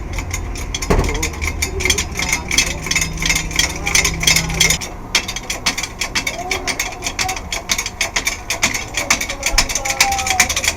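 Ratchet wrench clicking rapidly and evenly as a bolt is turned, with a short pause about five seconds in.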